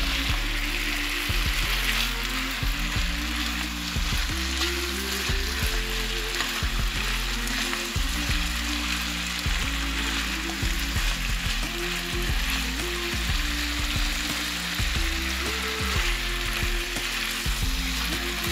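Diced chicken and vegetables sizzling in a frying pan as they are stirred and tossed with a silicone spatula, the tomato paste and garlic being mixed in. Music plays underneath.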